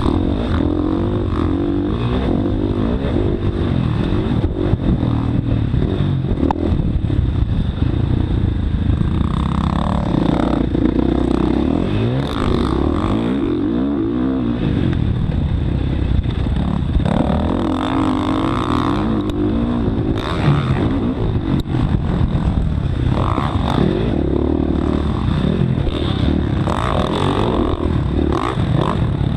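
Motocross dirt bike engine running hard, its pitch rising and falling again and again as the throttle opens and closes.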